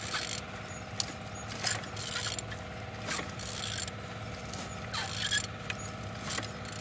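Engine being turned over by hand: a series of short mechanical rasping, clicking strokes about every second or so, the engine turning freely and not seized. A steady low hum runs underneath.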